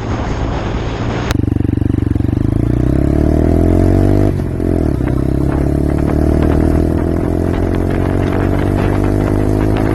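A 125cc motorcycle engine pulling under acceleration, its pitch rising steadily, dropping briefly about four seconds in as it changes gear, then climbing again. The first second is mostly wind rushing over the microphone before the sound changes abruptly to the engine.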